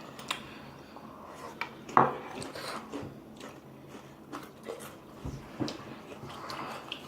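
Utensils clicking and knocking against a bowl while eating, a handful of separate clinks, the loudest about two seconds in.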